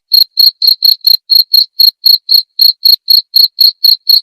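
Cricket chirping steadily: a rhythmic run of short, high, pure chirps, about four a second.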